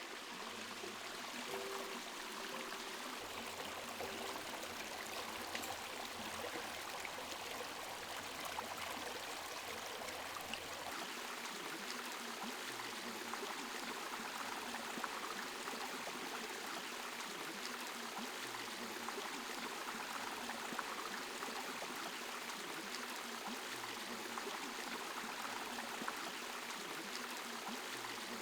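Water running steadily over the stones of a Japanese garden's small waterfall and stream, an even splashing rush.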